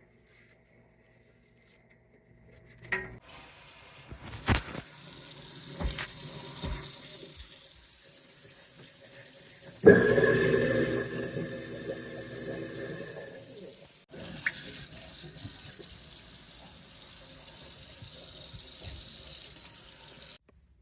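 Tap water running into a kitchen sink, with a newly installed garbage disposal switched on about ten seconds in: a sudden loud start and a motor hum that fades over a few seconds, while the water keeps running. This is a test run of the new disposal.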